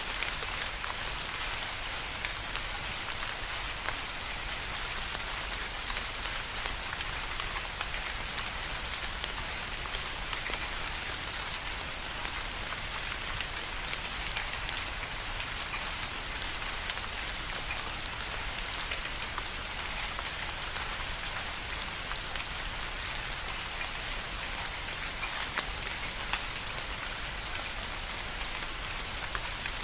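Steady rain with many individual drops ticking on a surface, an even hiss sprinkled with small sharp drop impacts.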